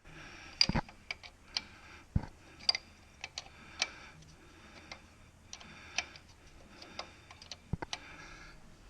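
A wrench turning a grease (Zerk) fitting on the Jeep's clutch linkage: irregular sharp metal clicks with a few short ratcheting spells, as the fitting is backed off and rotated to a new angle.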